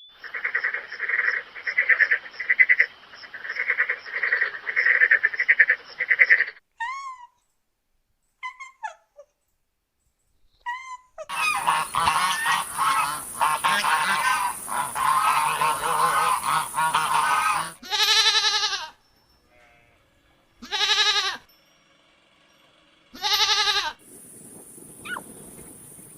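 A sequence of animal calls from several short clips. It opens with a quick run of repeated pitched calls, then a few short falling chirps, then a stretch of many overlapping calls with hiss. Near the end come three long pitched calls, each a couple of seconds apart.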